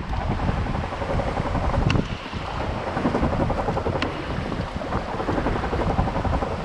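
Wind buffeting the microphone over the running two-stroke engine of a 1999 Sea-Doo XPL personal watercraft, with water rushing past the hull.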